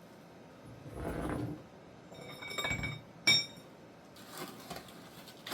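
Metal clanking while handling concrete-mixing gear: a dull scrape, then a ringing scrape and one sharp, ringing metal clank, the loudest sound, a little past halfway.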